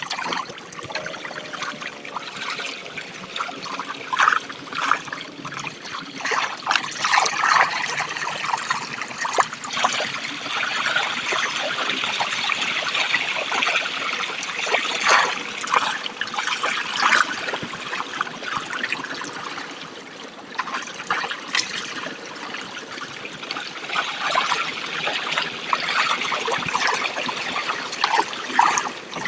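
Water trickling and splashing, with many small irregular splashes.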